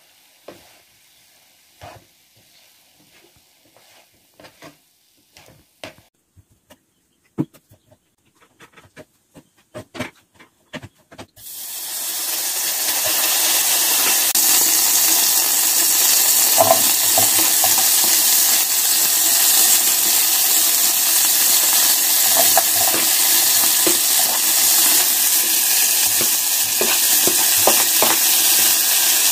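Scattered light clicks and scrapes of a spatula stirring cooked rice in a pan. About eleven seconds in, a loud, steady sizzle starts as butter melts in a hot pot and then chopped cabbage fries in it.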